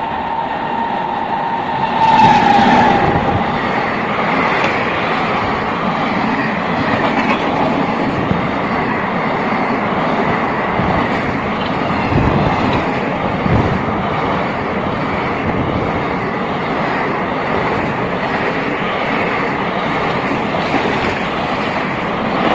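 WAG9 electric locomotive's horn sounding, loudest and dropping slightly in pitch about two to three seconds in as the locomotive goes by. It is followed by the steady rush and rattle of the express train's coaches passing at about 100 km/h.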